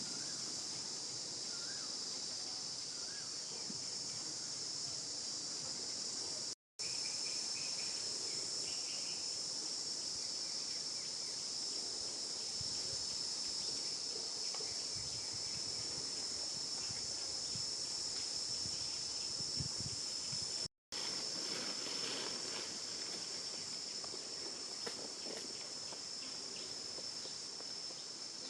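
Steady high-pitched insect chorus droning without a break, cutting out twice for a split second.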